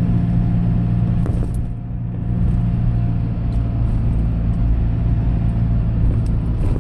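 Steady low drone of a vehicle's engine and road noise heard from inside the cab while driving.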